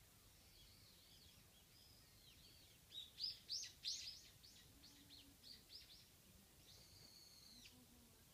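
Songbird calls: faint high chirps at first, then about three seconds in a run of quick, loud downward-sliding notes that trail off, and one drawn-out high note near the end.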